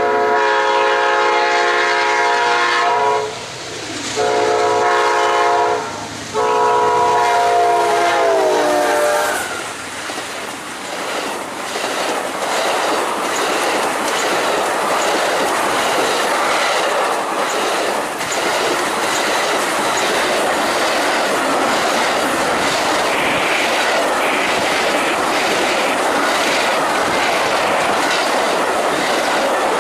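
Amtrak Auto Train sounding its horn in three blasts, the last one dropping in pitch as the locomotive passes. It is followed by the steady rumble and clickety-clack of the long consist's wheels over the rail joints.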